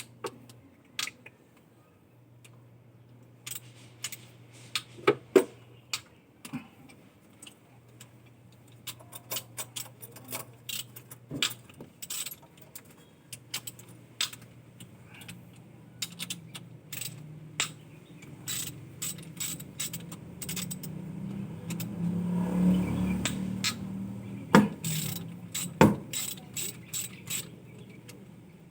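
Irregular metallic clicks and clinks of hand tools on metal parts, over a steady low hum. A louder rush of noise swells for a couple of seconds about three quarters of the way through.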